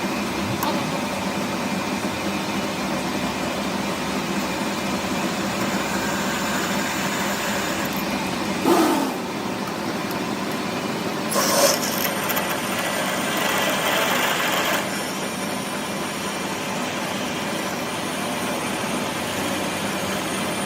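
Hand or power tools working metal, with a steady rasping and rubbing over a low hum. There are two short, louder strokes about nine and twelve seconds in, and the rasp grows louder for a few seconds after the second one.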